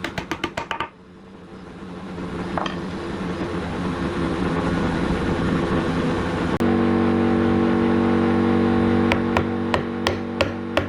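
Woodworking machinery running with a steady hum that grows louder, then cuts suddenly about two-thirds in to a louder, steadier hum. Rapid sharp clicks at the start and a run of regular sharp knocks, about three or four a second, near the end.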